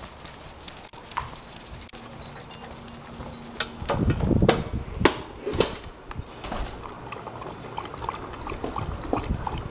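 Handling noise on a camera rig duct-taped to a moving dog: a few seconds of quiet rubbing, then from about four seconds in a run of loud irregular knocks and clicks, followed by smaller ticks.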